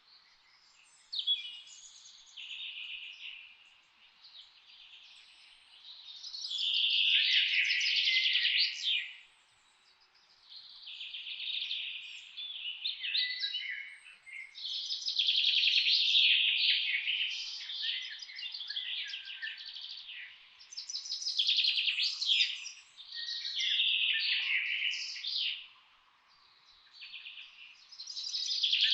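Songbirds singing in a forest: phrases of one to three seconds, many with fast trills, come again and again with short pauses between them.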